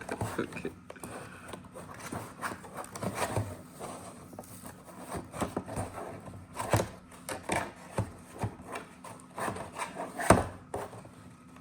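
Toy packaging being worked open by hand: irregular rubbing, scraping and crinkling with scattered small clicks as it is pulled and pried at.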